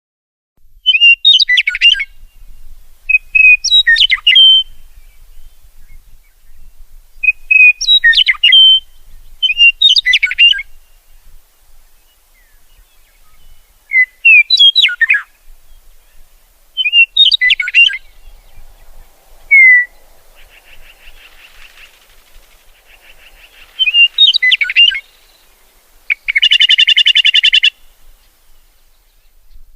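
A songbird singing short, quick whistled phrases every two to four seconds, with a harsh, buzzy call lasting about a second near the end.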